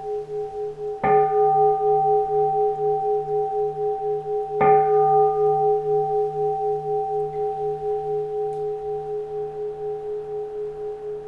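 Keisu, a Japanese Buddhist bowl-shaped bell, struck twice, about a second in and again about three and a half seconds later. Each strike rings on with a pulsing, wavering hum that slowly fades.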